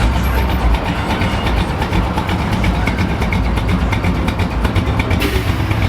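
A car engine running close by, its exhaust giving a steady, rapid pulsing, with a short hiss near the end.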